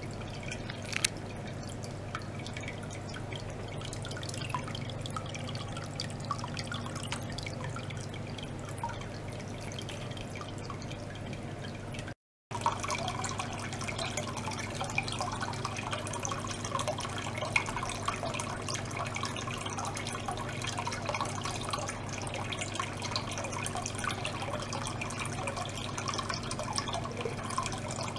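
Water circulated by a small pump through a tank, trickling and dripping over a steady low hum from the pump. The audio cuts out briefly about twelve seconds in, and the water sound is busier and louder after the break.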